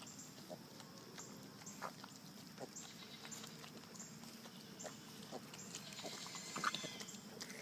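Animals eating together, pigs among them: faint, irregular chewing and crunching clicks, with a brief pitched animal call about two-thirds of the way in.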